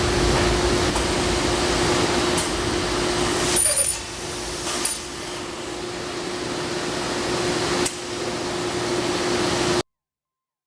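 Carbide-tipped circular-saw cutting machine running, its motor humming steadily with one held tone under a noisy whir, with a few sharp clicks. The level drops about four seconds in, and the sound cuts off suddenly shortly before the end.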